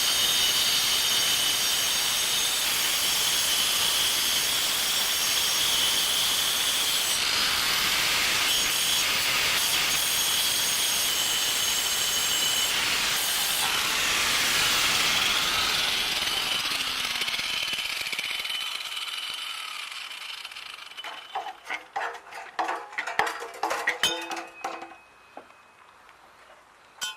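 Power tool cutting through the car's exhaust pipe to remove the muffler, running steadily for about sixteen seconds before winding down. Several knocks and clinks follow near the end.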